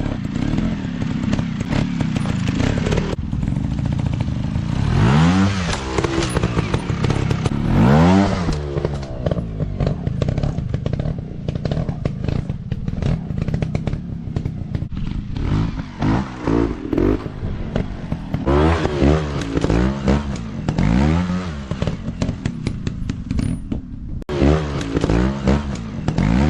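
Dirt bike engines revving up and falling back in repeated bursts, with clattering and knocks mixed in.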